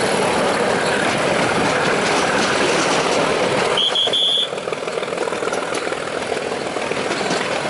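Nilgiri Mountain Railway toy train running, heard from inside the carriage: a steady rumble of wheels and engine, with a short high-pitched squeal about four seconds in, after which the noise eases slightly.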